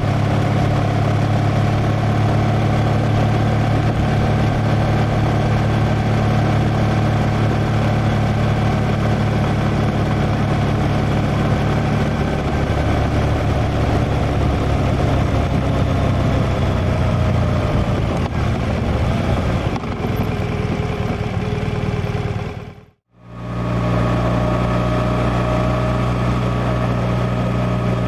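Liquid-cooled boxer twin engine of a 2016 BMW R1200R motorcycle running steadily, its tone shifting about halfway through. The sound fades out briefly about 23 seconds in and comes back in, running steadily again.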